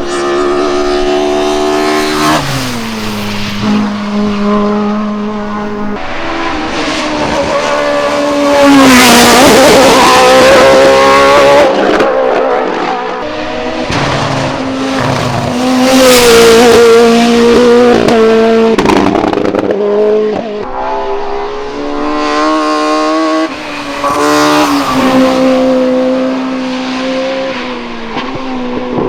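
Hillclimb race car engines at full throttle, pitch climbing and dropping in steps as the gears change, loudest as a car passes close about nine seconds in and again about sixteen seconds in.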